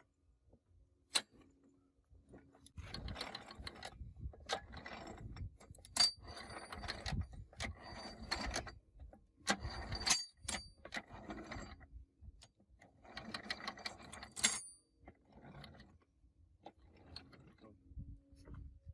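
Metal gearbox parts and tools being handled: irregular bursts of clattering and rattling with a few sharp metallic clicks, some leaving a short high ring.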